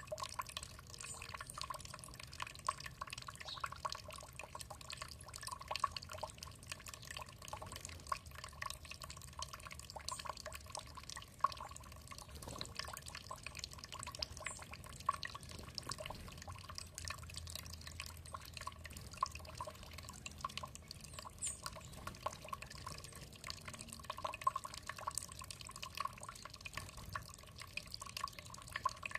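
Water trickling and dripping in many small, irregular drips and splashes.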